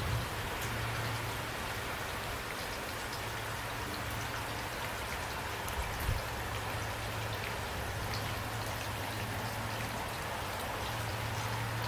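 Steady heavy rain falling, drops pattering on a surface, with a low steady rumble underneath and a slightly louder gust or spatter about six seconds in.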